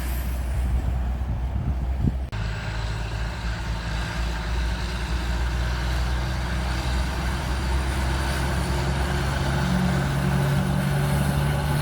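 Heavy diesel truck engine running with a steady low drone. The sound changes abruptly about two seconds in.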